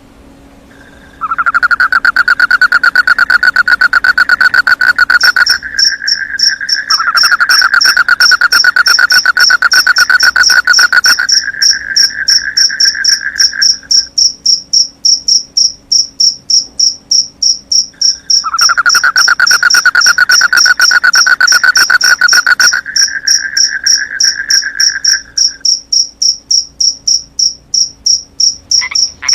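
Crickets calling at night: a loud buzzing trill starts about a second in, stops and restarts three times, while a high, evenly pulsed chirping joins about five seconds in and keeps going.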